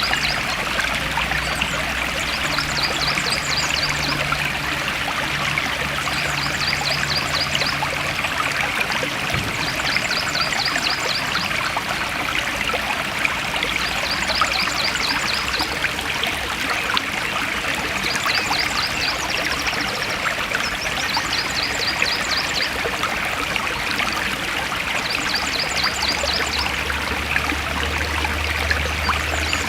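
Forest stream flowing steadily, with a short high trill of rapid ticks repeating about every three to four seconds.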